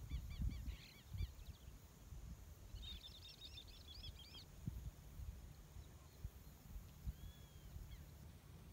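A bird calling in two quick runs of short, repeated chirping notes, the second about three seconds in, with a couple of faint single calls later. A low rumble with small bumps runs underneath.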